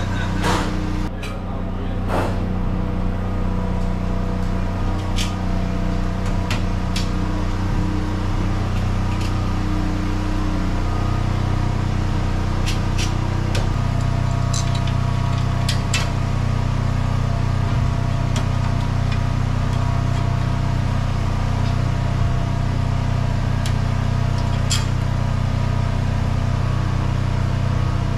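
A steady low mechanical hum of an engine or motor running, its pitch shifting slightly about twelve seconds in, with scattered sharp clicks and knocks over it.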